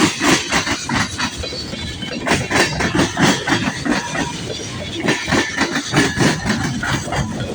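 Freight cars of a long CSX freight train rolling past, their wheels clattering and clanking irregularly over the rails.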